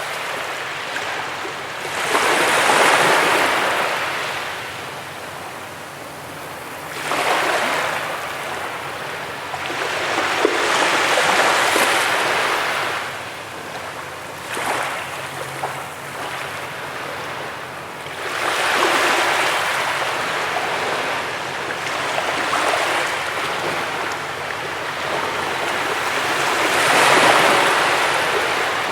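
Ocean waves breaking and washing up a beach: the surf swells and falls away every few seconds, with a quieter wash in between.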